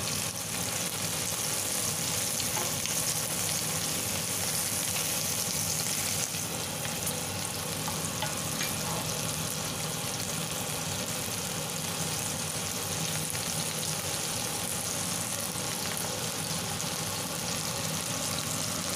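Shell-on shrimp frying in butter in a stainless steel pan, sizzling steadily while they are turned over with a wooden spatula.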